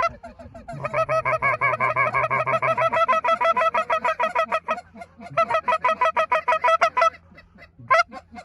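Goose honking in fast, regular runs of many honks a second, pausing briefly twice, then trailing off into a few scattered notes with one loud honk near the end.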